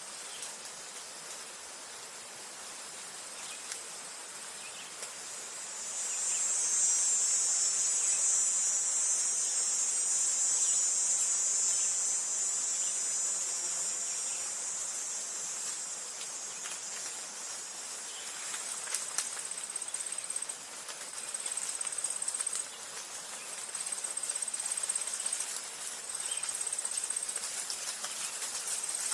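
Insects chirring in a high-pitched drone that swells loud about six seconds in and slowly fades. From about nineteen seconds, repeated trills a couple of seconds long, separated by short gaps.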